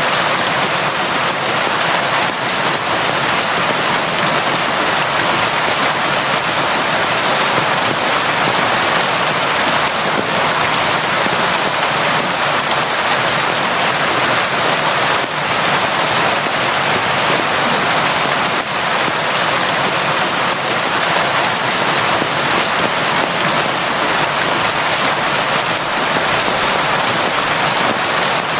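Steady, heavy rain, a dense even hiss of drops falling on surfaces without letting up.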